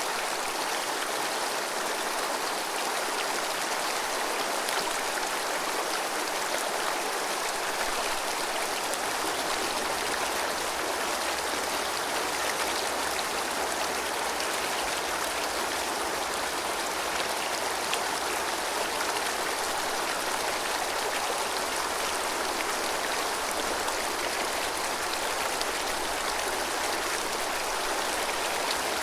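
Clear snowmelt mountain river babbling over stones: a steady rush of running water.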